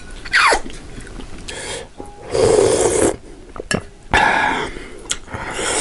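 Close-up crunching and chewing of crispy fried aalu nimki, in three noisy bursts.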